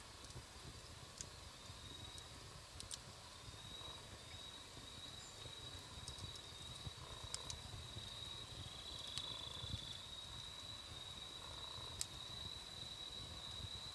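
Wood campfire burning with occasional sharp crackles and pops over a low rumble, alongside a steady high-pitched tone.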